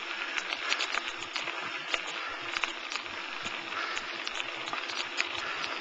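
Bicycle moving along a trail: a steady hiss of the tyres rolling, with many small ticks and rattles.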